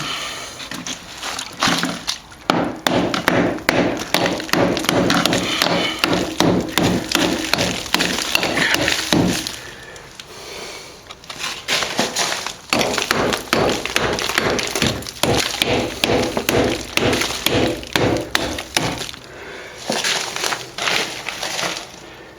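Hammer striking a chisel to chip out hard old plaster along a wall crack, rapid repeated blows with short pauses, about ten and twenty seconds in.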